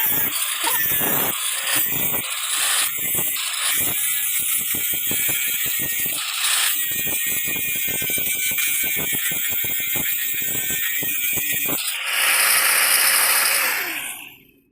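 A hand or power tool working the axe material: a fast rasping with many rough strokes a second. About twelve seconds in it gives way to a louder, even hiss that fades out just before the end.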